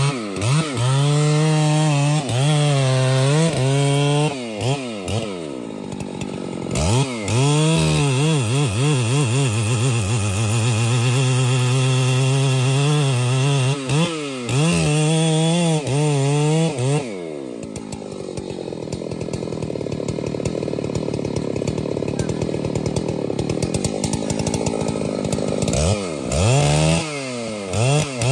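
Chainsaw engine revving up and down again and again, with a longer quieter, steadier stretch in the second half.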